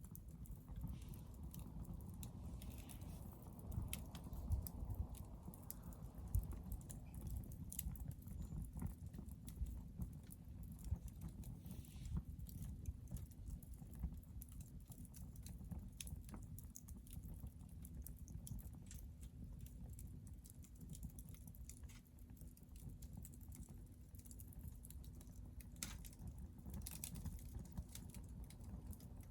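Hardwood fire crackling in a Picogrill titanium fire pit: irregular sharp pops and snaps, a few louder ones near the end, over a low steady rumble.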